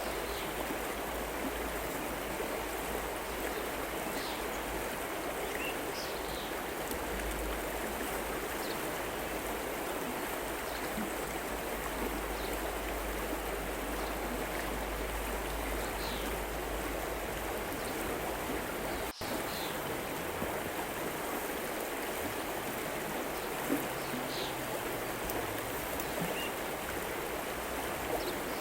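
River flowing steadily over rocks, an even rushing of water, with a few faint short high chirps now and then and a momentary break in the sound about two-thirds through.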